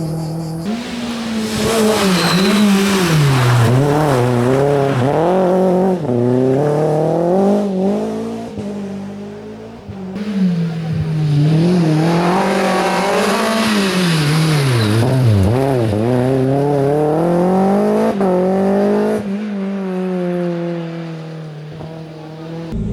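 Rally car engine at high revs on a special stage, its pitch climbing and dropping again and again through gear changes and lifts. This happens in two long passages, the first to about ten seconds in and the second to about nineteen seconds, then settles to a lower, steadier note.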